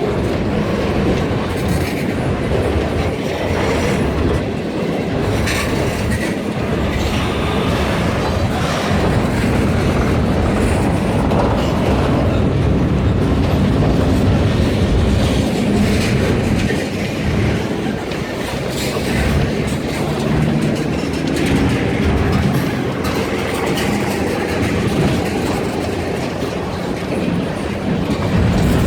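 Freight train cars rolling past, steel wheels clacking steadily over the rail joints.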